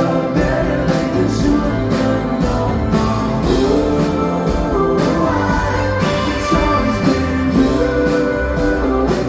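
Live pop-rock band music with a steady drum beat and sustained melodic lines.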